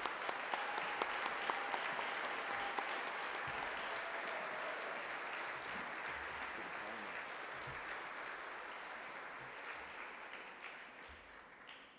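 Audience applause, many hands clapping together, starting just before and slowly fading away toward the end.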